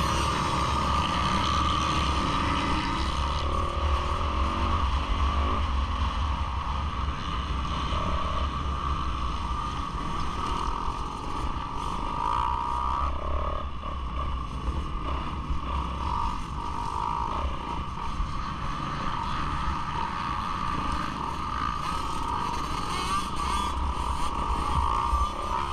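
Motocross bike engines running steadily, a constant drone with no big rises or drops in level.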